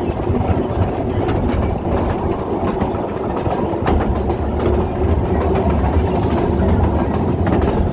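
Open carriage of a small narrow-gauge steam tourist train running along the track: a steady low rumble with irregular clicks and clatter from the wheels on the rails.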